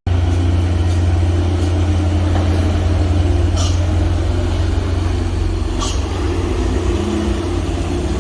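A motor vehicle's engine running steadily with a low drone, with two short hisses about three and a half and six seconds in.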